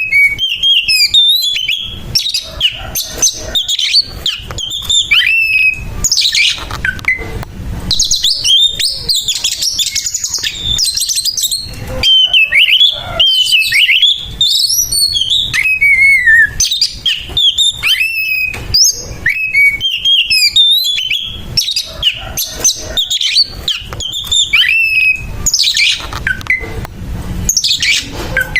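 Oriental magpie-robin (kacer) singing a fast, loud 'fighting' song: a continuous string of varied whistles and chirps, broken several times by harsh, scratchy stretches.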